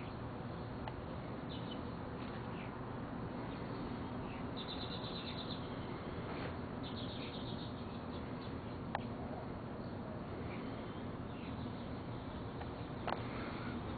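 Birds chirping, with two trills of rapid notes about a second each, over steady low background noise. A couple of sharp clicks come in the second half.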